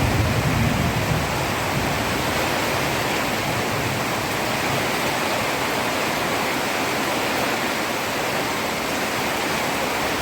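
Heavy rain falling on a road, a dense steady hiss. A low rumble of thunder dies away within the first second or two.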